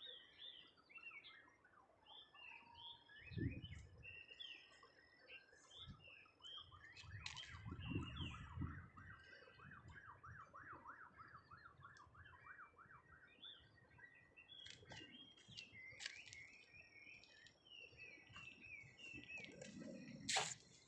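Birds chirping and singing, with a rapid, repeated trill through the middle. There are a few low thumps and a sharp click near the end.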